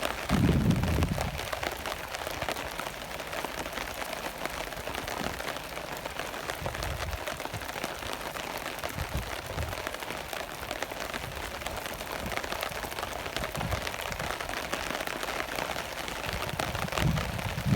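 Steady rain pattering on a surface, a dense hiss of drops. A brief low rumble comes about half a second in and again near the end.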